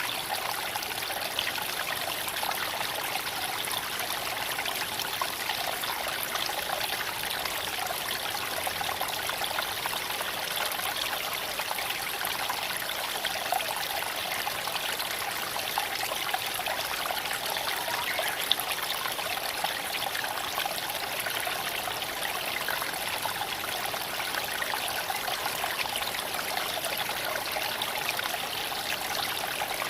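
Creek water flowing and trickling over stones, a steady, even rush with a few brief sharp ticks scattered through it.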